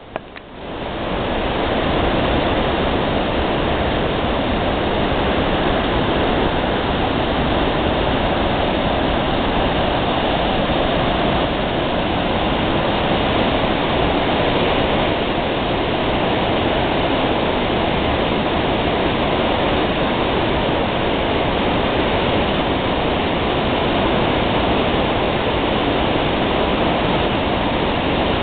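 Waterfall: a loud, steady rush of falling water, building up in the first second or two and then holding even.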